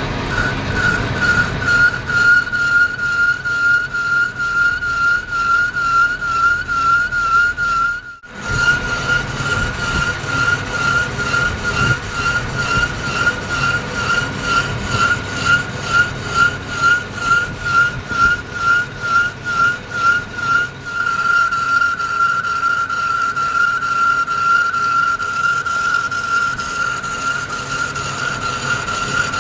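Metal lathe cutting a workpiece: a steady, high-pitched whine that pulses about twice a second, evening out into a constant tone about two-thirds of the way through. It breaks off briefly about eight seconds in.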